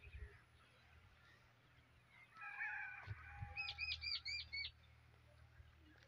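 Birds calling: a short call with several held notes about two seconds in, then a quick run of five repeated, arched whistled notes, over a low steady background rumble.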